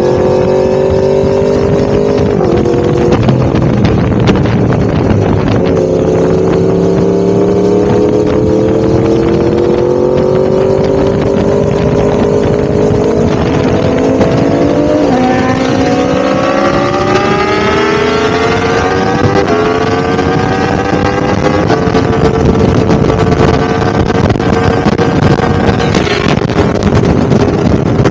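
Yamaha YZF-R1M's crossplane inline-four engine pulling under way, its pitch climbing steadily and dropping sharply several times as it is shifted up through the gears, then holding a steady note for the last several seconds.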